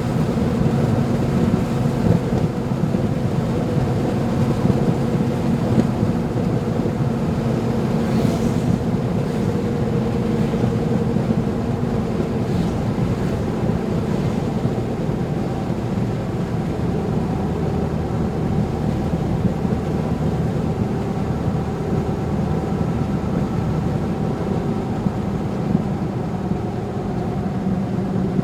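Steady engine and road noise of a vehicle driving on a wet road in rain, with a couple of brief higher swishes about a third of the way in and again a little later.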